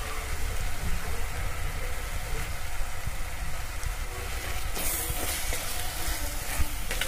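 Onion-tomato masala sizzling steadily in a pot over a gas flame, with a low rumble underneath. From about five seconds in, a steel spoon stirs the spices through, and the sizzle grows brighter.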